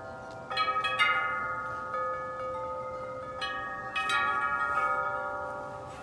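Wind chimes ringing as the wind swings them, with clusters of strikes about half a second, one second and four seconds in. Each tone rings on and overlaps the next.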